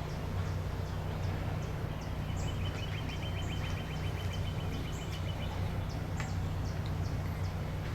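Wild birds chirping with short, high, repeated calls, and a rapid even trill lasting about three seconds in the middle, over a steady low hum.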